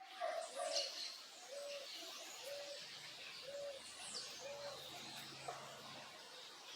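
Backyard birds: a dove cooing, a short low note repeated about once a second, while other birds give a few high, quickly falling chirps.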